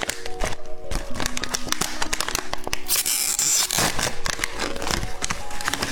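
Close-miked crackling and crinkling of a roll candy and its wrapper: many small crisp clicks, with a short rustling, tearing burst about three seconds in. Soft background music notes sit underneath.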